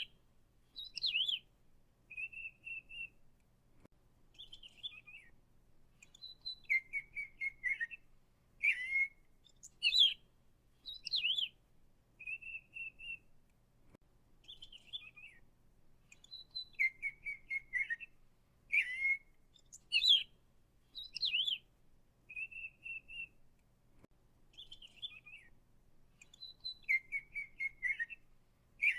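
Songbird singing short whistled and chirping phrases, one every second or two, with the same sequence of phrases recurring about every ten seconds.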